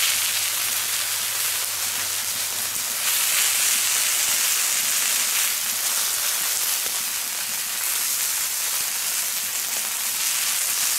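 Bacon-wrapped spring rolls sizzling on a hot steel fire plate: a steady frying hiss that gets a little louder about three seconds in.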